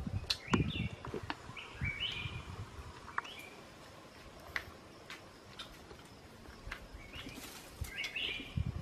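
Birds chirping: short, stepped calls come in a few clusters, the loudest near the start and near the end. Sharp clicks are scattered throughout, with a few low thuds in the first second.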